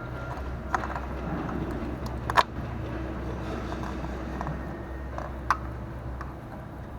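Scattered sharp clicks and light knocks of hands and parts being handled around an engine bay, the loudest about two and a half seconds in, over a steady low hum.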